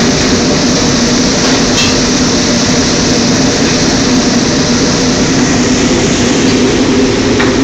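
Steady loud rushing drone of a Chinese restaurant kitchen's wok range, with a constant low hum underneath.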